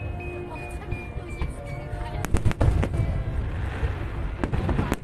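Aerial fireworks bursting: sharp bangs clustered about two seconds in and again near the end, with a crackling fizz between them, over background music.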